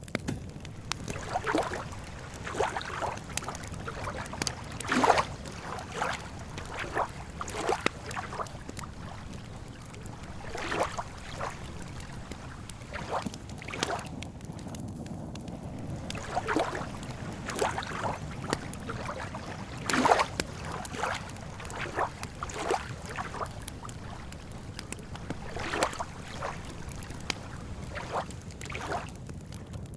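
Wood campfire crackling, with irregular sharp pops and snaps every second or so over a steady low rush; two louder pops stand out, about five and twenty seconds in.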